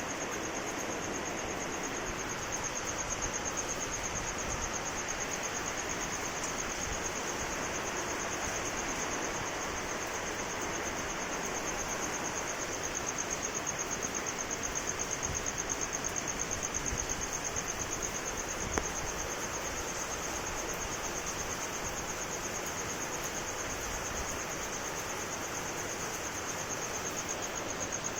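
Steady rain hiss under a continuous high-pitched insect trill, with a single brief tick about two-thirds of the way through.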